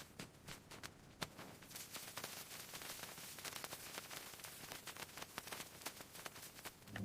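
Faint, irregular crackling clicks over a steady hiss, growing denser about two seconds in.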